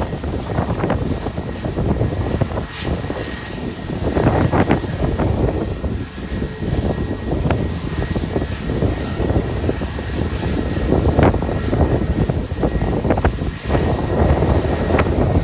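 Airliner jet engines at takeoff power as a plane departs, their noise broken up by strong gusts of wind buffeting the microphone.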